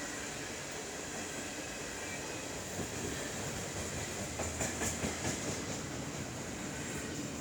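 Freight train cars rolling past, their steel wheels running on the rails with a steady rumble. A run of sharp clicks over rail joints comes around the middle.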